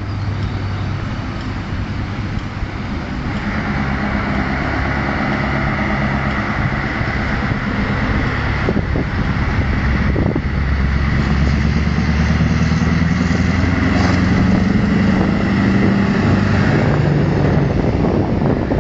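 Scania 164L 480 truck's V8 diesel engine running and growing slowly louder, with a brief break in its note about nine to ten seconds in.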